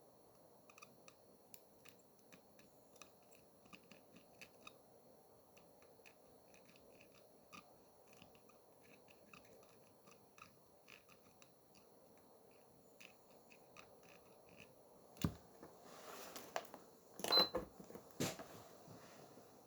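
Small repair tools being handled on a workbench: many faint, irregular clicks and ticks, then a few louder knocks and clatters near the end.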